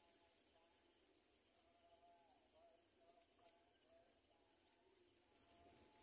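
Near silence: faint outdoor ambience with distant whistled bird calls and short, repeated high chirps.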